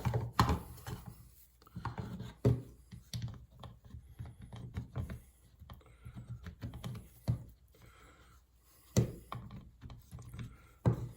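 Irregular small clicks, taps and knocks of headlight motor parts being handled while new grease is worked onto the gear teeth, with a quiet pause a little past the middle.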